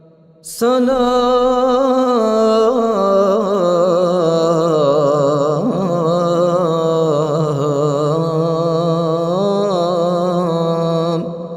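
A male Quran reciter's voice holding one long melodic vowel in a single breath for about ten seconds, the pitch wavering and stepping through an ornamented line, then fading away near the end.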